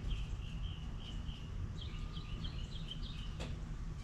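A small bird singing: a string of short chirps repeated a few times a second, the notes changing pattern about halfway through, over a low steady rumble. A single sharp click about three and a half seconds in.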